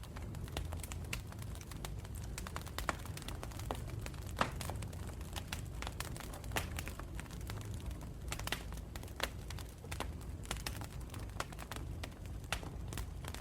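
Wood campfire crackling: irregular sharp pops and snaps over a steady low rumble, with the loudest snap about four and a half seconds in.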